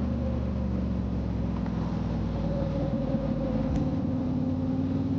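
Motorcycle engine running steadily while riding at cruising speed, with an even rushing hiss of wind and road noise.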